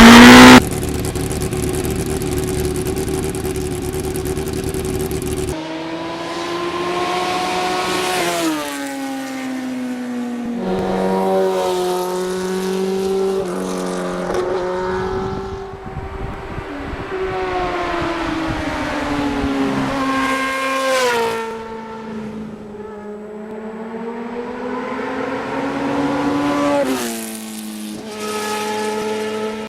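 1991 Yamaha FZR motorcycle engine under way: a steady drone with wind noise for the first few seconds, then the revs climb and drop sharply several times as it pulls through the gears.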